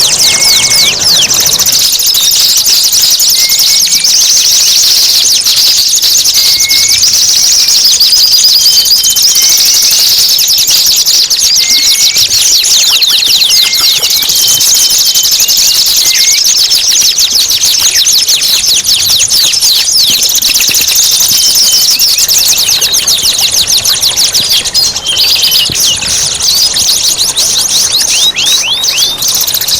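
Recorded songbird masteran: a loud, continuous, rapid high chattering trill, with short lower chirps repeating every second or two.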